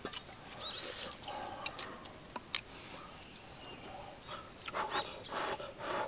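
Faint bird chirps, short calls rising in pitch a few times, with a couple of sharp clicks in between.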